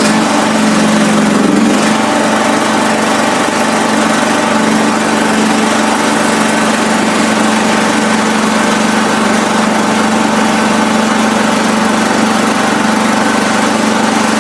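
1979 John Deere 214 lawn tractor's 14 hp Kohler single-cylinder engine running steadily after its first start in three weeks. Its note changes slightly about two seconds in, then holds even.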